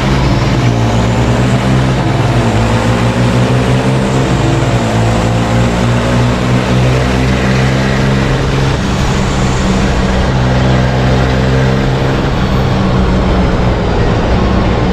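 Racing truck's diesel engine running hard, its pitch dipping and climbing again a few times with throttle and gear changes.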